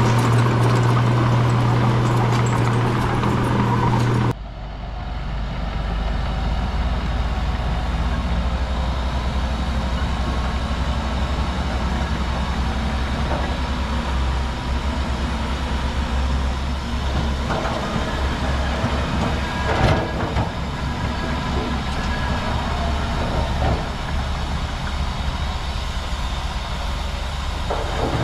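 Heavy diesel earthmoving machinery running steadily under work, likely the bulldozer. About four seconds in the sound changes abruptly to a deeper, steady low rumble, with a few faint knocks further on.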